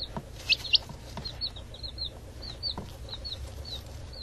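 Baby chick peeping: a quick run of short, high cheeps, about three or four a second, the loudest two about half a second in, over a steady low hum.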